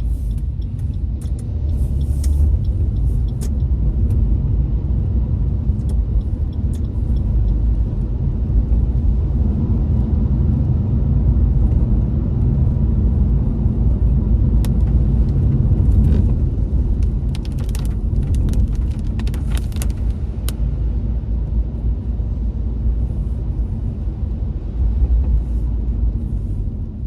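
Road noise inside a moving car: a steady low rumble from engine and tyres, with scattered light clicks now and then.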